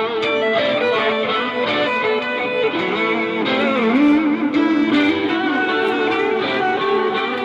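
Live music led by a plucked guitar, its notes at times sliding and bending in pitch.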